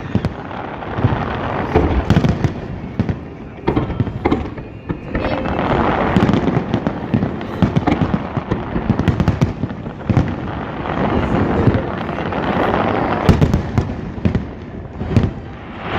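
Fireworks display: aerial shells bursting in rapid, repeated bangs over a constant rumble and crackle, with denser volleys in the middle and near the end.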